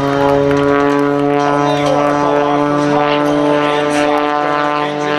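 Propeller aircraft engine droning steadily at a constant pitch.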